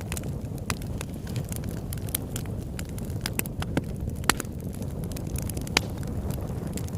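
Campfire burning: scattered sharp pops and crackles from the burning wood over a steady low rumble.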